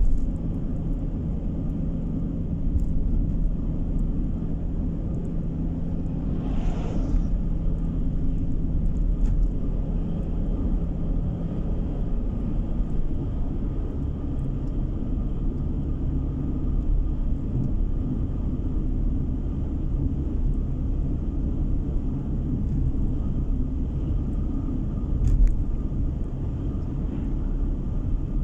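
Car driving along a road, heard from inside the cabin: a steady low rumble of engine and tyres, with a brief whoosh about six seconds in and a short knock near the end.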